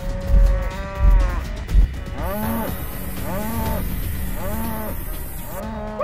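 Cartoon buffaloes mooing over and over, about one call a second, with heavy footfall thuds roughly every 0.7 s during the first couple of seconds as the herd charges.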